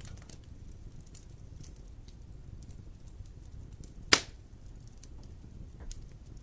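Wood fire burning in a fireplace: a steady low rumble with scattered light crackles, and one loud sharp pop about four seconds in, with a smaller pop near the end.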